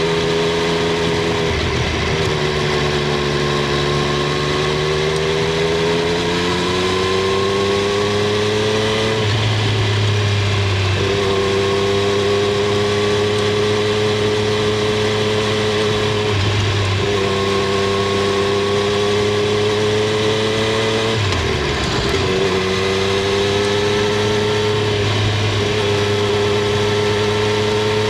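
Triumph Street Triple 765 R's three-cylinder engine and exhaust running under way. The pitch climbs slowly in places and dips briefly about four times.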